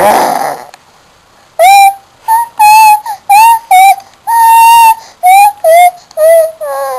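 A six-month-old baby's voice: a short rough growl, then a string of about ten loud, high-pitched squealed notes, one held longer in the middle, like a little sung tune.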